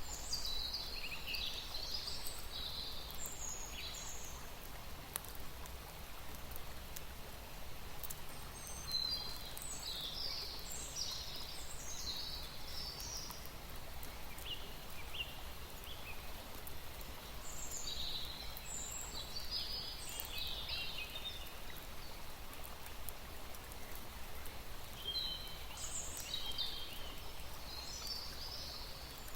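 A songbird singing four bursts of quick, high chirps and trills, one about every eight seconds, over steady outdoor background hiss.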